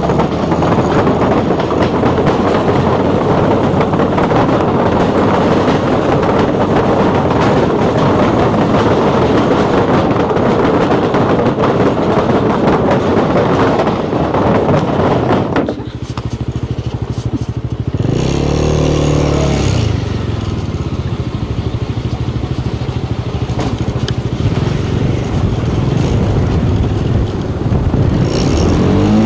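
Motorcycle riding on the road: a loud, steady rush of wind over the engine for about the first half. Then the wind eases and the engine note comes through, rising and falling briefly about 18 seconds in and again near the end.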